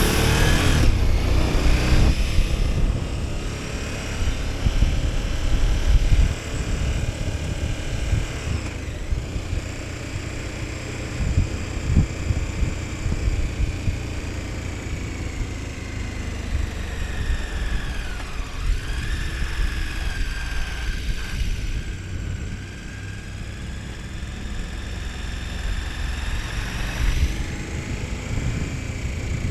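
KTM 1290 Super Adventure S's V-twin engine running under way, with wind and road rush. It is louder for the first six seconds, then eases off. About two-thirds in, its pitch dips and climbs back.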